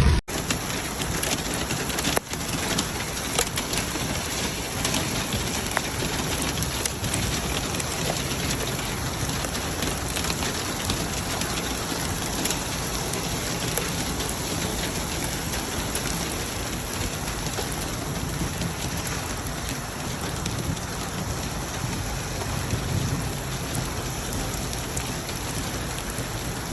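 Heavy rain falling steadily, with many close drops ticking on a surface.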